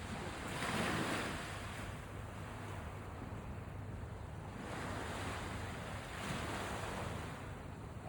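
Sea waves breaking and washing up a beach, each wash rising and falling away, the loudest about a second in and two more swells near the middle and later on. Wind buffets the microphone with a steady low rumble underneath.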